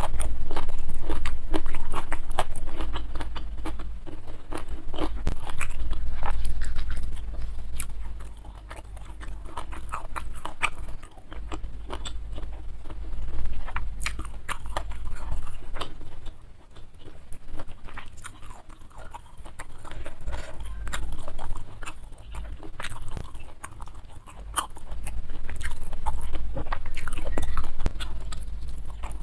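Close-miked chewing and crunching as rice, fish in green chili sambal and crisp petai beans are eaten by hand, with many small crackling bites coming in swelling bouts.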